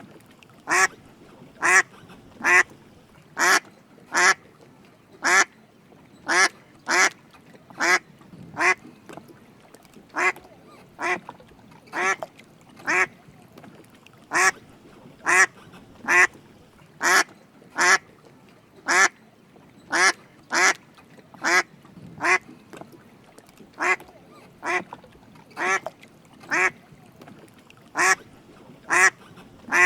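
Drake mallard duck quacking: short quacks repeated at a steady pace, a little more than one a second.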